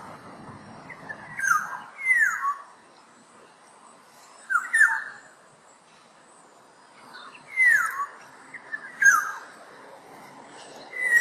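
Black-naped oriole (kepodang) calling: short, downward-sliding calls, some in quick pairs, repeated every second or two.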